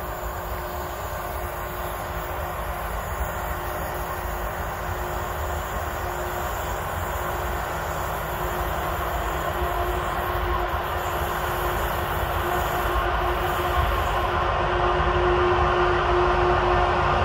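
Class 18E electric locomotives hauling a train approaching to stop, a steady rumble with a steady hum over it, growing louder throughout.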